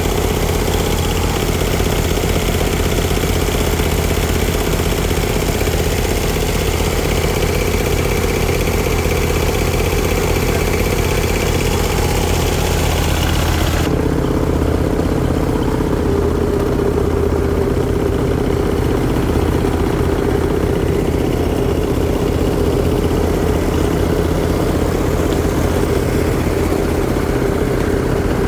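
Diesel tractor engine idling steadily, its fuel system freshly bled. A high hiss over the engine cuts off suddenly about halfway through.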